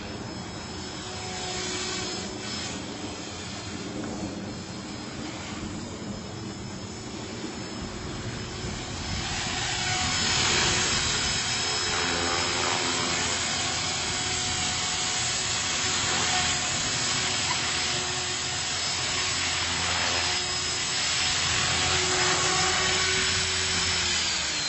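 450-size electric flybarless RC helicopter in flight: the steady whine of its motor and spinning rotor blades. It grows louder about nine seconds in, and near the end the pitch falls as the rotor winds down.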